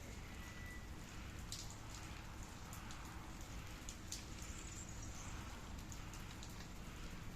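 Steady rain falling, with individual drops ticking sharply now and then. A brief faint high tone sounds right at the start.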